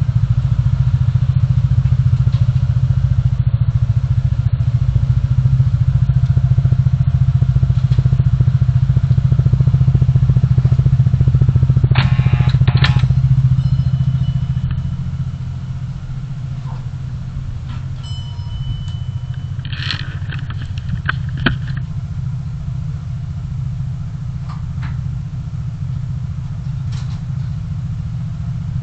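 Car engine and road rumble heard from inside the cabin through a dashcam microphone. The rumble is steady, then eases off about 14 s in as the car slows. A few short clicks or rattles come around 12 s and again around 20 s.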